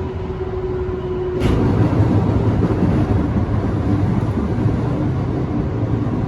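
Electric train running along the track. A steady hum stops about a second and a half in with a sharp click, and the rolling rumble of the wheels on the rails then grows louder.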